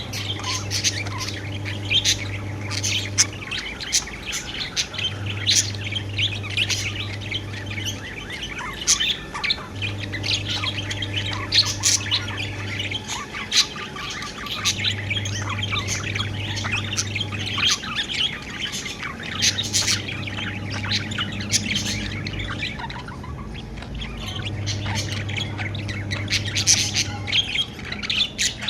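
A flock of budgerigars chirping and chattering busily, with rapid overlapping chirps and occasional squawks. A low hum comes and goes in a regular cycle of about every five seconds beneath them.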